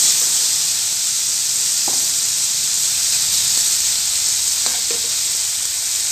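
Tomatoes, onion and garlic sizzling steadily in hot oil in a metal wok, sautéed as the base of the stew. They are stirred with a metal ladle, with a few light scrapes of the ladle against the pan.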